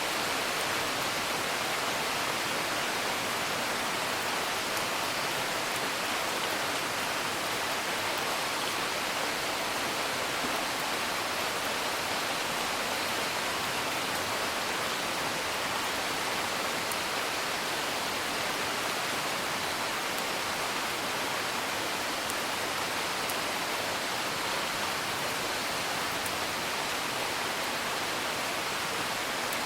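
Steady rain, heard as an even hiss, with faint scattered crackles of a wood fire.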